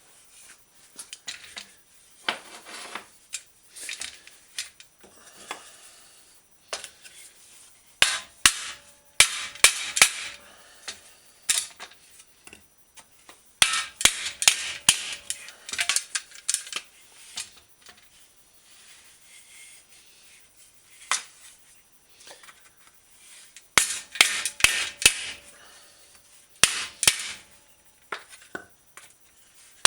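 Dented steel bicycle fender being whacked to work out the dents: three bursts of rapid, sharp blows with lighter taps between, the metal ringing faintly after some strikes.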